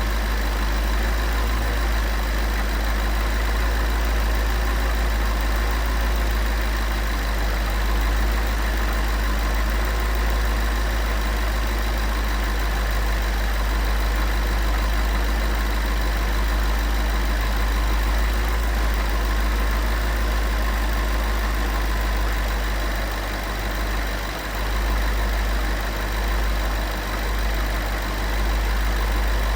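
Porsche 911 flat-six engine idling steadily after a cold start, with its oil treated with the TriboTEX additive.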